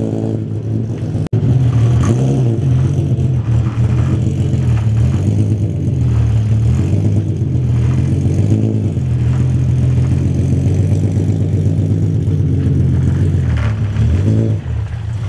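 Car engine running steadily at low revs, with a deep, even drone. The sound cuts out abruptly for an instant about a second in.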